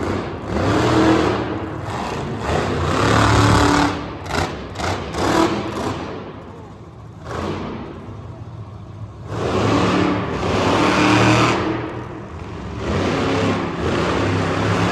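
Monster truck engine revving in repeated surges, dropping back for a few seconds in the middle before climbing again.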